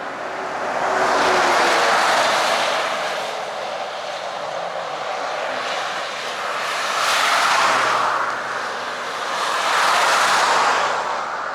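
Cars passing on a nearby road: tyre and road noise swells and fades three times, about two seconds in, near eight seconds and again near the end.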